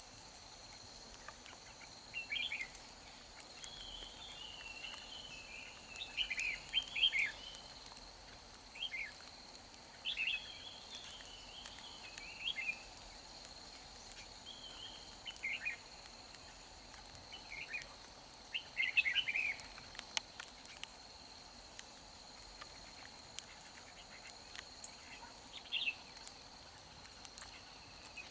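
Red-whiskered bulbul singing: short, bright warbled phrases repeated every second or two, with a steady high insect whine behind.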